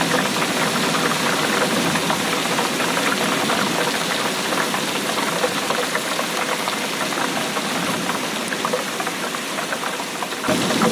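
Steady rain, a dense crackling patter of many drops. About ten and a half seconds in, the sound changes abruptly to a fuller, deeper rain.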